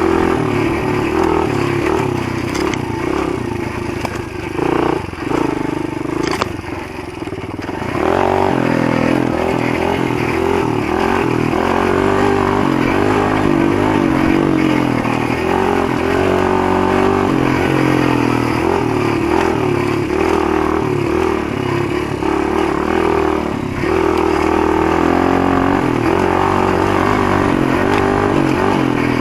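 Motoland GF125 pit bike's 125 cc single-cylinder four-stroke engine running under way, its revs rising and falling with the throttle. It drops off for a few seconds about four seconds in, then pulls again.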